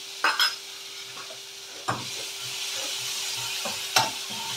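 Chopped garlic and green chillies sizzling in hot oil in a metal kadai, with a spoon clicking and scraping against the pan as they are tipped in and stirred. The sizzle grows louder about two seconds in.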